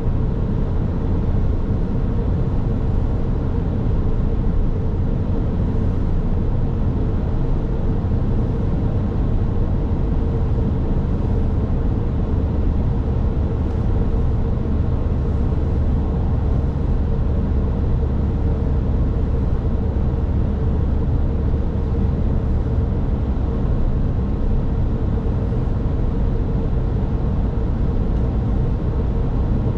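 A car driving at a steady speed: constant road and engine rumble with tyre noise and a steady hum.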